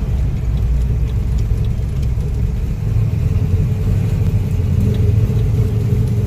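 1970 Pontiac GTO's 461-cubic-inch Pontiac V8 with Ram Air V tunnel-port heads, rumbling steadily through a full 3-inch exhaust while driving at light, even speed, heard from inside the cabin.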